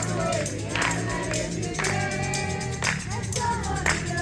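Congregational worship music: voices singing a praise song over a band, with a percussive beat about once a second.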